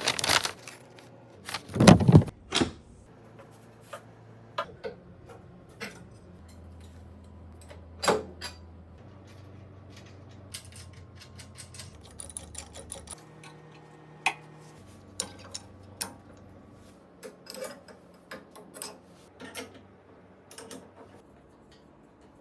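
Irregular clicks, clinks and knocks of tools and metal hardware being handled in a workshop, with a heavier thump about two seconds in and another around eight seconds in.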